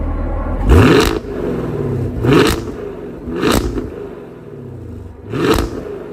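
2023 Chevrolet Camaro LT1's 6.2-litre V8 idling, then blipped four times with the car standing still, each rev rising sharply and falling back toward idle; the first rev, about a second in, is the loudest.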